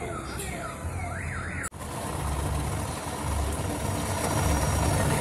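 Siren-like rising and falling electronic sweeps, then after a sudden break a huge outdoor sound system blasting music, loud and dense, with a heavy bass beat about once a second.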